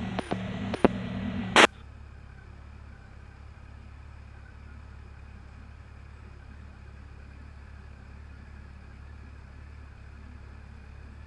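A scanner transmission cuts off with a short squelch burst about one and a half seconds in. After it comes a faint, steady low rumble of the motorcycle running.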